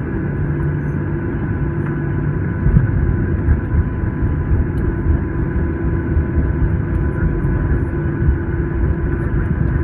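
Steady cabin noise inside a Boeing 737-900: a low rumble of engines and airflow with a few faint steady whines. The rumble swells about three seconds in and stays a little heavier after.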